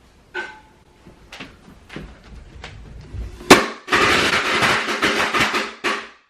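Firecrackers going off in a cooking pot: a few scattered pops, then a loud bang about three and a half seconds in and a rapid run of crackling that cuts off suddenly just before the end.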